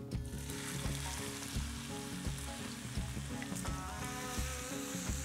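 Chopped shallots and red chillies hitting hot cooking oil in a wok, sizzling steadily as they fry, with a spatula stirring through them.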